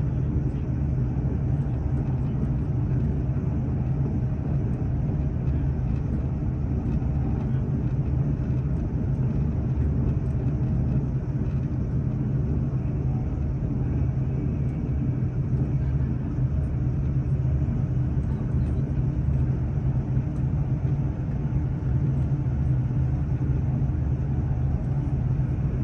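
Steady low rumble and hum of a train in motion, heard from inside the carriage.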